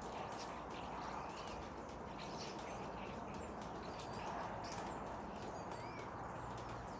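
Several small birds chirping, with many short chirps and quick whistled notes, some sliding up or down, scattered throughout over a steady background rush.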